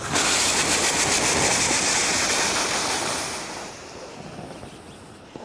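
Water hitting the hot cup of an Instant Vap oxalic acid vaporizer and flashing to steam: a loud hiss that starts suddenly and dies away over about four seconds.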